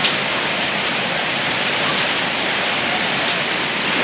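Heavy downpour of rain mixed with hail, a steady dense hiss with no let-up.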